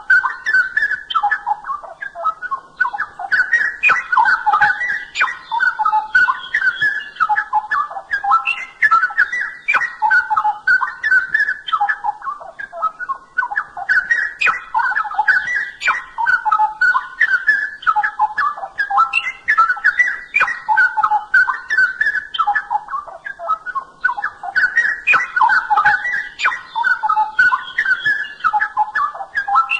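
Straw-headed bulbul (cucak rowo) singing loudly and without a break: rich, bubbling whistled phrases that slide up and down, repeated with only brief pauses.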